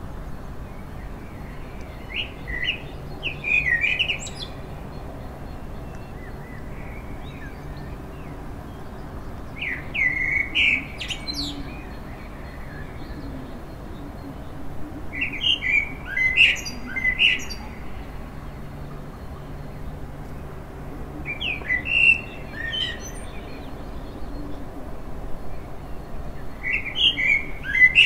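A songbird singing a short, chirpy song phrase over and over, about every six seconds, over a steady low hum of city background noise.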